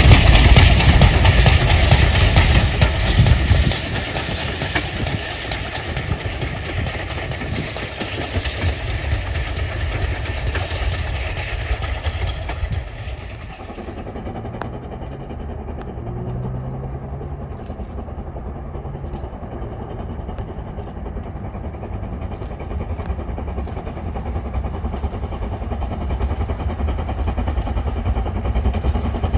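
A train passing close on a steam railway, loud for the first few seconds and then fading. About 13 seconds in the sound changes abruptly to a quieter, steady low rumble.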